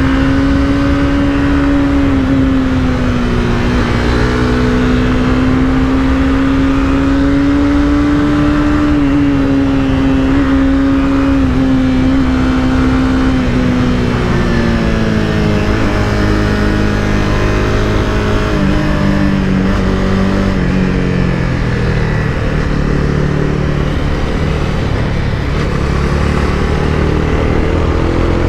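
Honda CBR300R's single-cylinder engine heard onboard while riding, holding fairly steady revs at first, then falling in pitch in a few steps partway through, and climbing again near the end.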